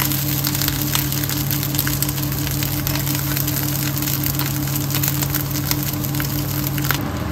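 Garlic fried rice frying in a pan: fat crackling and sizzling under freshly added basmati rice, scrambled egg and garlic, many fine crackles in a steady run. A steady low hum sits under it and stops near the end.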